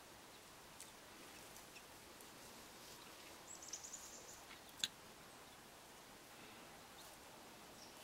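Near silence broken by a brief, rapid run of high, thin notes from a small songbird about three and a half seconds in. A single sharp click, the loudest sound, follows just under five seconds in.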